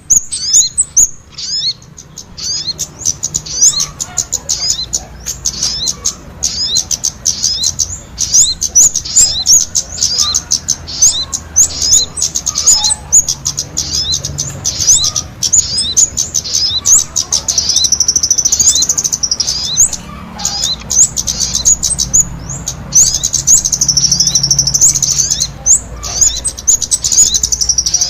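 Kemade and sogon songbirds singing vigorously together (gacor): a dense, rapid stream of high-pitched chirps and quick sweeping notes, merging into long continuous trills for a few seconds around the middle and again near the end.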